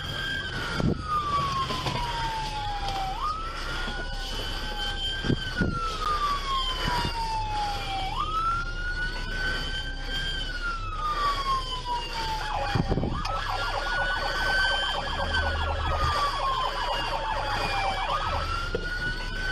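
Police car siren wailing in slow cycles, each rising quickly and then falling slowly over about five seconds. A harsher buzzing tone joins for about five seconds in the second half.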